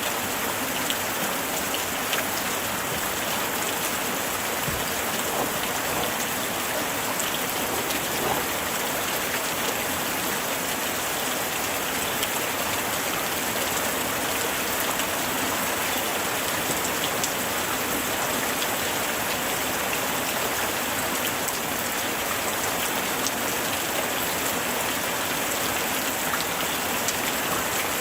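Light rain falling steadily, a continuous hiss with many small drop ticks scattered through it.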